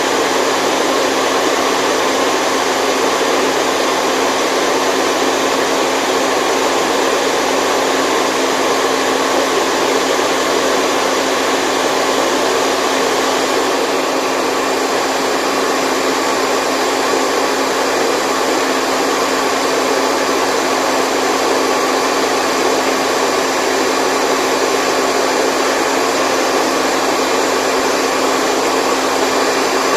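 Steady white noise for sleep: an even, unchanging whooshing hiss with no deep rumble, like a hair dryer running.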